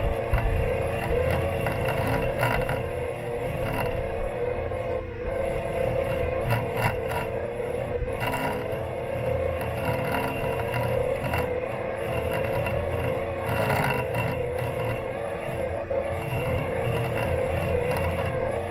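Robot lawn mower's electric motors running with a steady whine, heard close up from on the mower's body, with rumble from travelling over the lawn and a few brief knocks.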